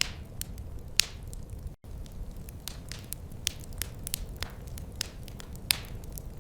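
Wood fire crackling in a fireplace: a steady low rumble of flames with irregular sharp pops and snaps. The loudest pops come about a second in and near the end. A little under two seconds in, the sound drops out completely for a moment.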